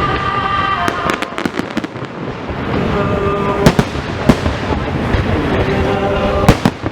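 Fireworks bursting overhead as sharp bangs at irregular intervals: a quick run of crackling reports about a second in, single loud bangs near the middle, and two more near the end.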